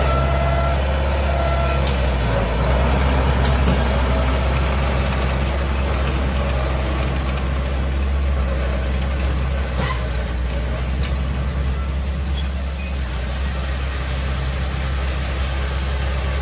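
Diesel engine of heavy earth-moving machinery running steadily, a low drone with a small shift in pitch a little over two seconds in.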